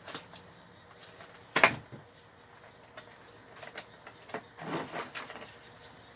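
Scattered clicks, knocks and rustles of plastic toy packaging being handled and opened, with one sharper knock about one and a half seconds in and a run of clicks near the end.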